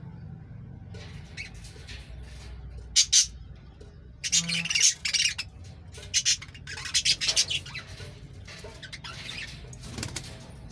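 Pet lovebirds squawking in short, high-pitched bouts. The loudest are two sharp shrieks about three seconds in, with further bursts of calls over the following several seconds.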